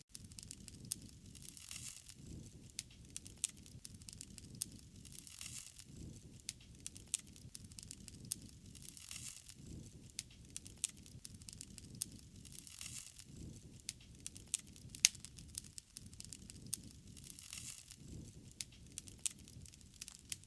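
Wood fire crackling: irregular sharp pops and snaps over a soft low rush of flame that swells every few seconds.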